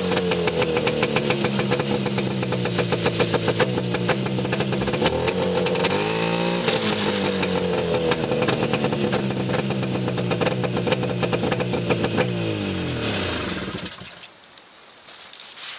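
Yamaha Excel 340 snowmobile's two-stroke engine running, revving up once about six seconds in and settling back. Near the end it winds down and shuts off.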